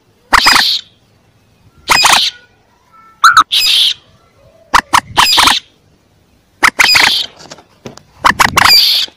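Young common moorhens calling: about six short, harsh, squawking calls, each about half a second long, repeated roughly every second and a half.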